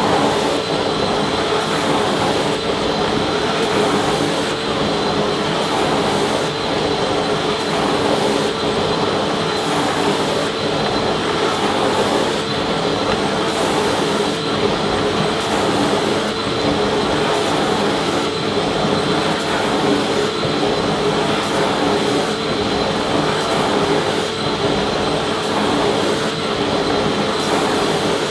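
Vacuum cleaner running steadily: a constant motor whine over rushing air, with a faint regular pulsing in the high hiss.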